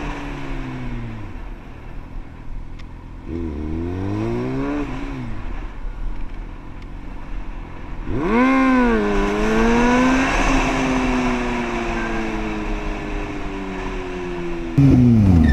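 Motorcycle engine heard from the rider's position, revving up and down through the gears over a noisy background. It slows at first, revs briefly, then picks up sharply and holds a slowly falling note. Near the end the sound jumps louder as an engine winds down.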